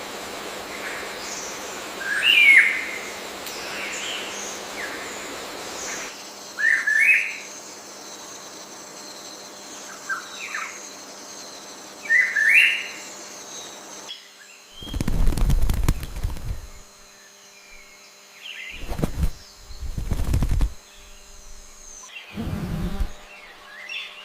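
Rainforest ambience with a bird giving short rising chirps every couple of seconds over a soft hiss. In the second half the chirps give way to four deep, muffled thumps, each about a second long.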